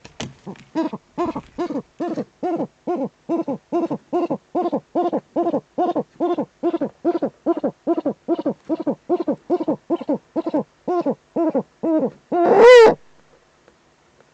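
Eurasian eagle owl calling at the nest: a rapid, even series of short pitched notes, about three a second, for some eleven seconds. Near the end comes one longer, louder call that rises and falls in pitch.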